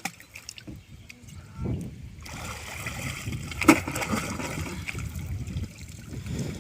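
Water sloshing and splashing around a boat in flood water, with one sharp knock about three and a half seconds in.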